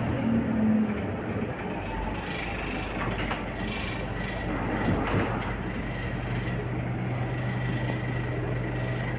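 Scania K230UB city bus under way: the engine drones steadily, mixed with road noise and some knocks and rattles.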